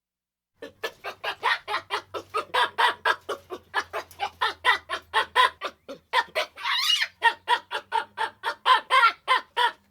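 Chicken clucking rapidly, short sharp calls about four or five a second, broken once a few seconds in by a longer squawk that slides in pitch.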